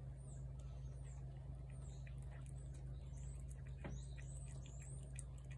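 Faint, high, short bird chirps, a handful of them spread through, over a steady low hum.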